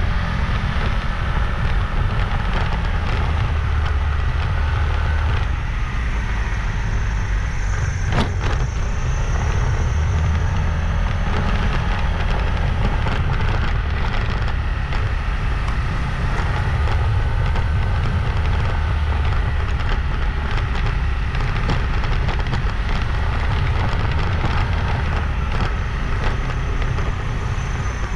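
Wind rushing and buffeting over the microphone on a moving motorbike, over steady engine and road noise. A single short click sounds about eight seconds in.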